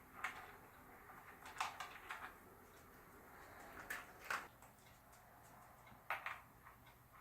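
A dog crunching its food, heard faintly as small clusters of sharp crunches every couple of seconds.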